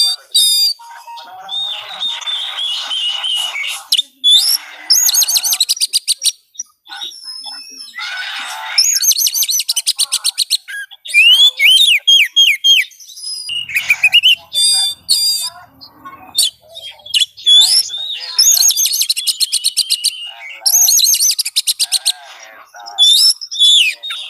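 Oriental magpie-robin (kacer) singing loudly: a varied run of whistled phrases that slide up and down, rapid ticking trills and harsh chattering notes, with short pauses between phrases.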